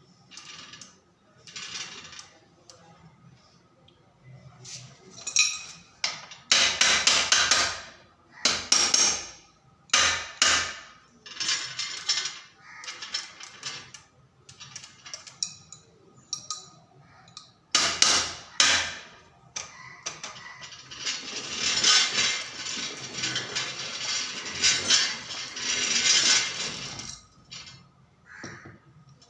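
Hand tools clanking and knocking on the metal parts of a child's bicycle rear wheel, in irregular bursts. About two-thirds of the way through there is a longer stretch of continuous clatter.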